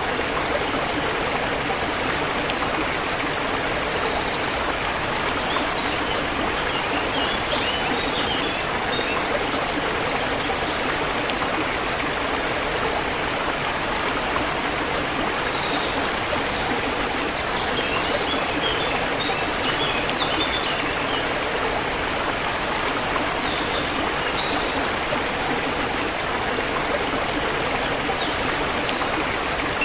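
Forest river water flowing steadily, with faint bird chirps over it in a few short bouts.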